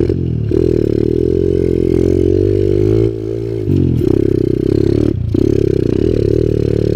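Kawasaki KLX110L pit bike's single-cylinder four-stroke engine, breathing through a Pro Circuit exhaust, revving under load on a hill climb. The engine note dips about three seconds in as the throttle eases, then picks back up, with a short break just past five seconds.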